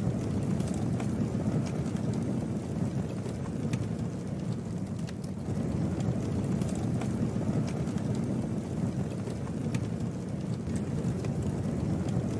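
Campfire burning: a steady low rush of flames with scattered sharp crackles and pops from the burning wood.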